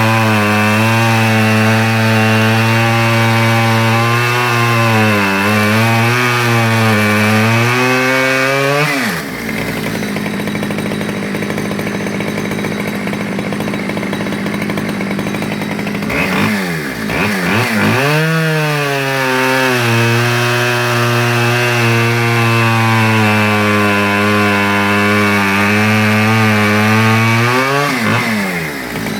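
Stihl 010 AV 37cc two-stroke chainsaw cutting logs at full throttle, its pitch dipping and wavering as the chain bites. About nine seconds in it drops to idle, then revs back up and makes a second cut, and near the end it falls back to idle.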